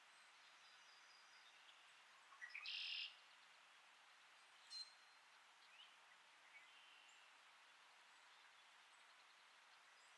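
Songbirds calling over a quiet steady hiss. About two and a half seconds in there is one loud, high, trilled song phrase lasting about half a second, and a sharp short chip comes near five seconds. A few faint chirps are scattered through the rest.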